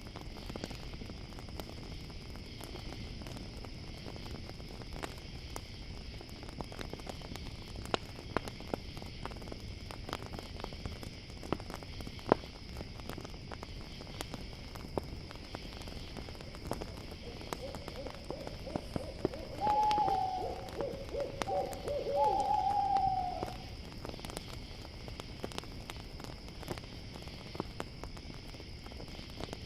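Campfire crackling with sharp pops over a steady high chirring of crickets; about two-thirds of the way in, an owl hoots in a short run of calls lasting some four seconds.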